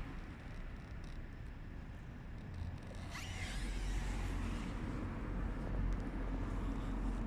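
A stray cat purring and rubbing its head against the microphone, a low rumble with rubbing noise that grows stronger about two and a half seconds in.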